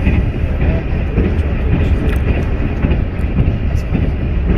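Passenger train carriage in motion, heard from inside: a steady low rumble of the running train.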